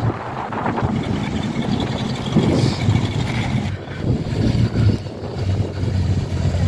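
Classic American cars driving slowly past at a crawl, first a Cadillac coupe and then a late-1950s Plymouth, with a low, steady engine note.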